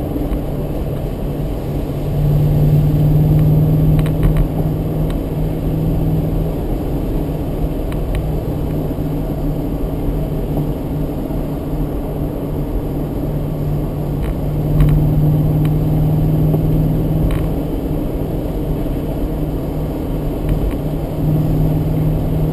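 BMW Z8's V8 engine pulling at steady revs, heard from inside the cabin. The engine note swells twice, about two seconds in and again about two thirds of the way through.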